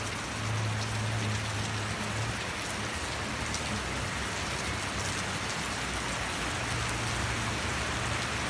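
Heavy rain falling steadily, with scattered sharp drop ticks and a low hum that comes and goes underneath.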